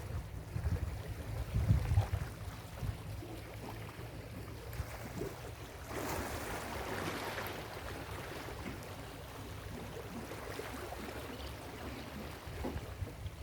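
Ocean waves washing on a beach, with a wave surging in as a broad hiss about six seconds in and fading over a couple of seconds. Uneven low rumbles in the first two seconds are the loudest part.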